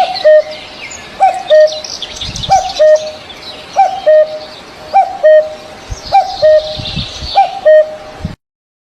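A bird repeats a low, hooting two-note call about every second and a quarter, while other birds chirp higher in the background. The sound cuts off suddenly near the end.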